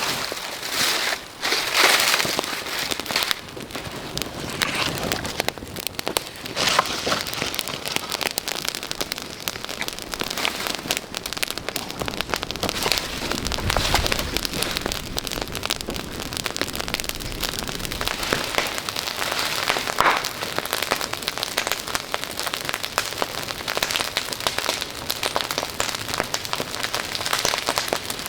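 Rain falling, a steady hiss with many small drop ticks, heavier in the first few seconds.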